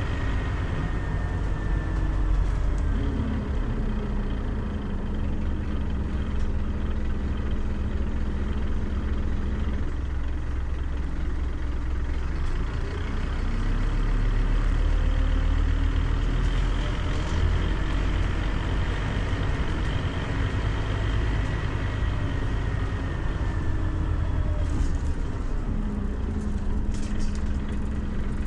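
Scania CN270UB city bus under way, heard from inside: the diesel engine runs with a low rumble throughout. Twice its pitch falls and settles into a steady hum.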